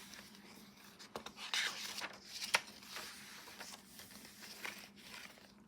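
Paper and fabric pages of a handmade junk journal being turned and handled: soft rustling with a few sharper paper flicks, over a faint steady hum.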